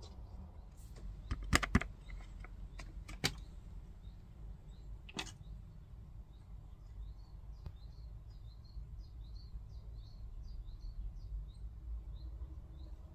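A few sharp knocks and clicks in the first five seconds, then a small bird's quick, high chirps, several a second, over a low background rumble.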